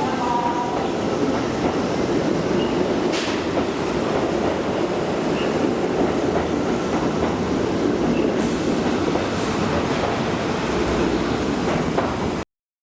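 Train running along the track: a steady rumble with a few sharp clicks, cutting off suddenly near the end.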